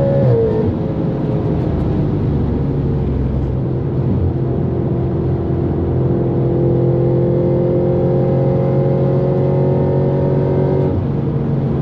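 Straight-piped Audi RS5's 4.2-litre V8 accelerating hard. The pitch drops at an upshift just after the start, climbs slowly as the revs build in the higher gear, then drops again at another upshift near the end.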